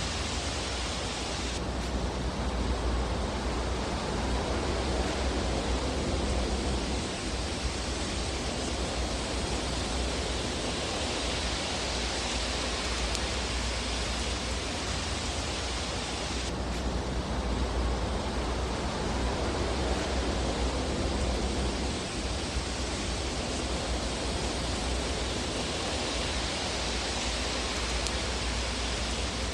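Steady rushing noise, with no distinct crackles. It swells suddenly about two seconds in and again about sixteen seconds in, fading away slowly after each swell.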